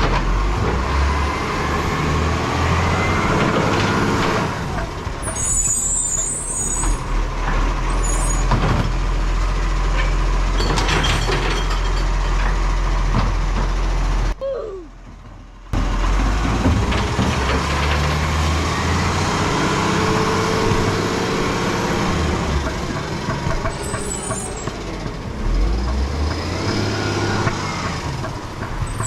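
Garbage truck's diesel engine running close by, its pitch rising and falling as it revs, with three short hisses from the air brakes.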